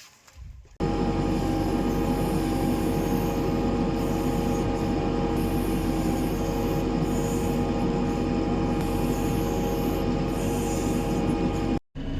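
Heavy diesel machinery running steadily at constant revs, a low engine rumble under a high, steady whine. It starts abruptly about a second in and cuts out for a moment near the end.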